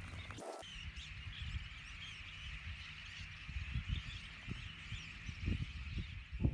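A dense, steady chorus of many high animal calls, with irregular low rumbles underneath.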